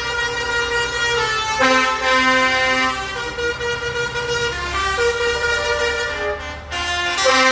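Layered horn-like tones, each chord held for a few seconds and then changing pitch, with a lower note pulsing on and off.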